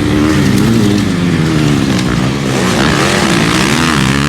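Several motocross bikes racing, engines revving up and down as the riders work the throttle, their pitches rising and falling and overlapping.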